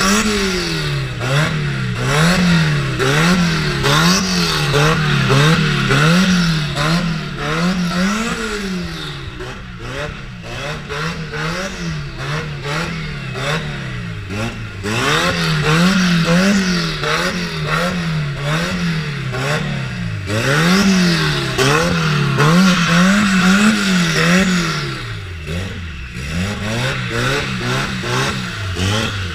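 An engine revved up and down over and over, its pitch rising and falling about once a second without a break.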